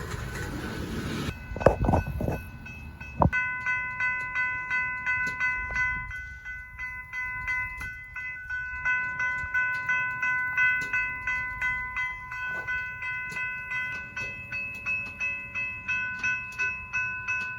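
Railroad grade-crossing warning bell ringing steadily at an even rate, starting about three seconds in after a short hiss and a few knocks.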